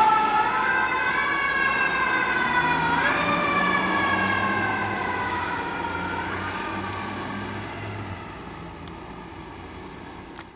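Fire apparatus siren wailing, its pitch gliding slowly downward with a couple of small rises, over the low rumble of a heavy truck engine. It fades steadily as the responding vehicles move away.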